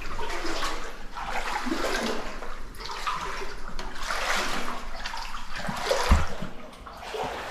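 Water sloshing and splashing in uneven surges as a person wades through a cave pool, with a dull knock about six seconds in.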